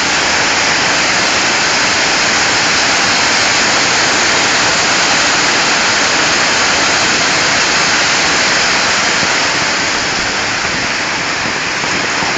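Torrential rain pouring down in a thunderstorm: a loud, dense, steady hiss of water, easing slightly near the end.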